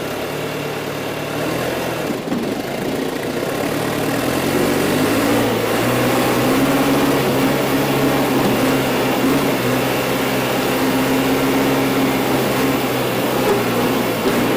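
John Deere 410 loader backhoe's engine running steadily. Its note rises about four seconds in and then holds.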